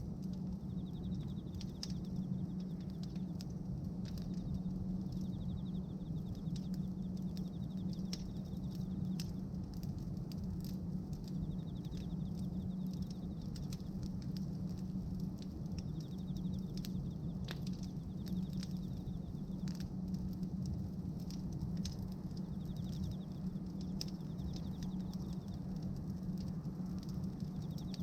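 Bonfire of pruned tree branches crackling, with irregular sharp pops and snaps, over a steady low hum.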